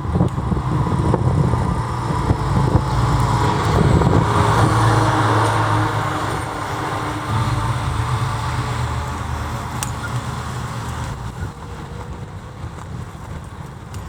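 Responding emergency vehicle driving past, its engine and road noise loudest about four to five seconds in, then fading as it moves away.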